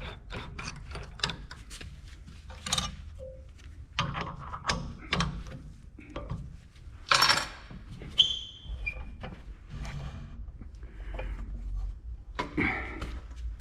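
Metal tools and parts being handled at a workbench: scattered clicks, clinks and knocks, with one short metallic ring about eight seconds in.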